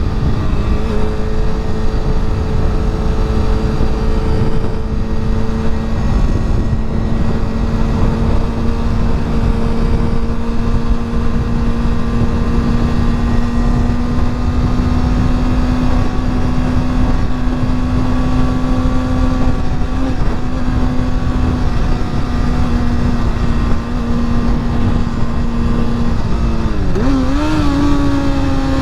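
Honda CBR sportbike engine running at a steady cruise under heavy wind rumble on the microphone. Near the end the engine note drops, then climbs back to a slightly higher steady pitch, like a gear change.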